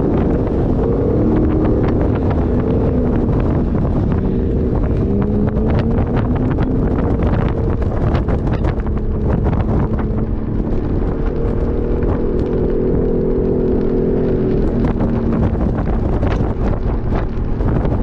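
A 4x4's engine running under changing load, its pitch rising and falling as the throttle changes, over a heavy low rumble, with wind on the microphone and frequent short rattles and knocks.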